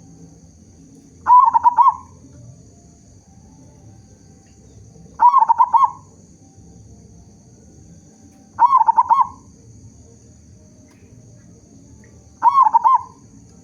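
Zebra dove (perkutut) cooing: four short calls spaced about four seconds apart, each a quick run of rolling notes.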